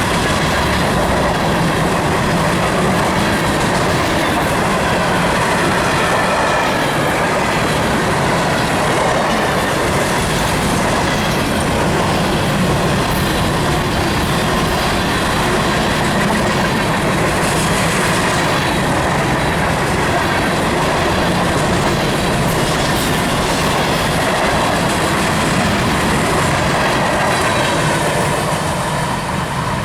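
A long string of empty grain hopper cars in a freight train rolling past steadily, their wheels running loudly along the rails.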